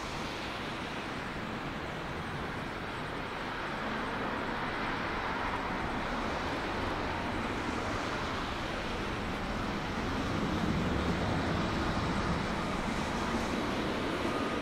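Jet engine noise from a Boeing 777-300ER airliner's GE90 turbofans, a steady broad rush that grows louder about four seconds in and again about ten seconds in.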